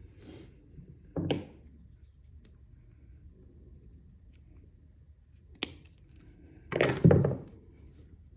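Short handling noises: a brief knock or scrape about a second in, a sharp click a little past halfway, then two louder scrapes or knocks in quick succession near the end.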